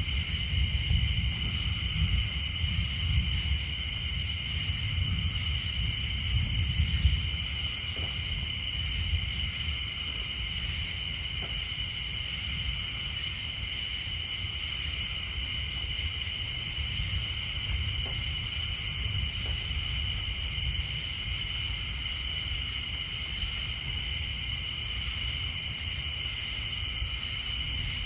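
Night chorus of tree frogs and insects: steady high trilling, with a higher buzzing pulse about every two seconds. Underneath is a low rumble of distant thunder that eases off about seven seconds in.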